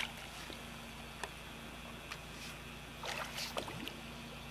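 Soft splashing and sloshing of shallow sea water as a child wades, with a few short splashes about three seconds in, over a faint steady hum.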